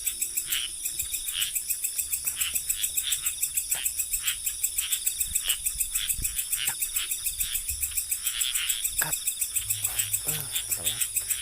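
Night chorus of insects and frogs after rain: a dense, steady high trill pulsing rapidly, about six pulses a second, with shorter chirps repeating underneath.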